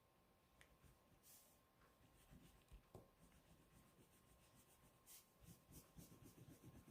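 Near silence, with a few faint soft scrapes and ticks of paper being handled while glue is applied.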